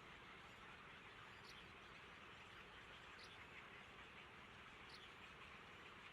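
Faint high-pitched bird chirps, three short calls evenly spaced about a second and a half apart, over a low steady hiss.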